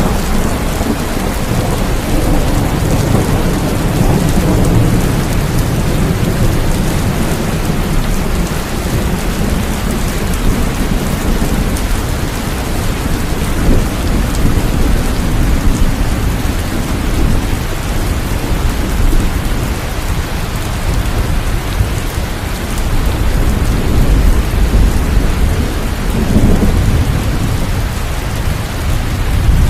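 Steady heavy rain falling, with thunder rolling low underneath, swelling a few seconds in and again near the end.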